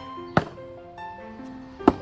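Two sharp thunks, about a second and a half apart, of a small hatchet striking wood, over background music with a steady melody.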